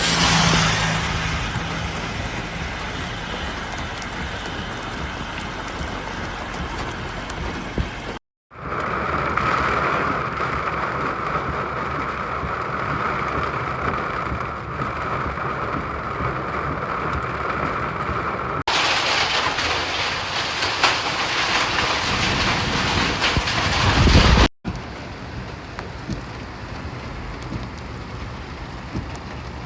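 Heavy rain with a steady hiss of falling and running water, changing abruptly about 8, 19 and 25 seconds in as one recording gives way to the next.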